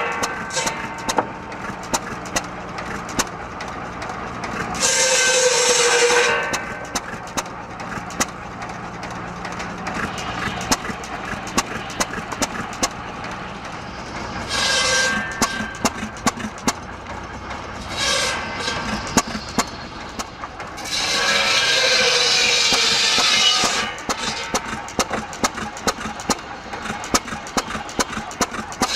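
A 5 HP Sandwich hit-and-miss gasoline engine runs with a string of sharp firing bangs, driving a firewood buzzsaw. The saw blade rasps and whines through wood in several loud bursts: about five seconds in, around fifteen and eighteen seconds, and for a longer cut starting just past twenty seconds.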